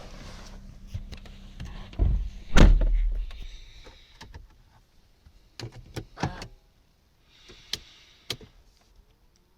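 A car door shuts with a heavy thump about two and a half seconds in, just after a lighter knock, over a steady low hum that fades away soon after. A few sharp clicks follow in the quiet.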